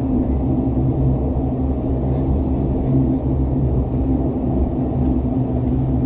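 Steady low drone of a Dash 8 Q400 turboprop's engines and propellers, heard from inside the cabin, with a constant hum in its pitch.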